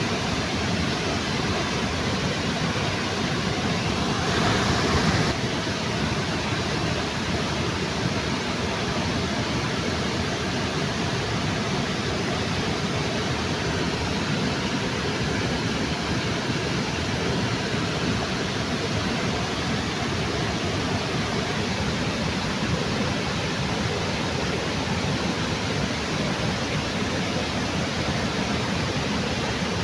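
Waterfall under a bridge: a steady rush of falling water, briefly louder about four seconds in.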